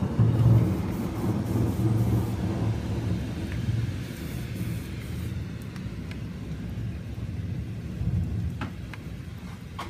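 Rolling thunder: a low rumble, loudest at the start, slowly dying away.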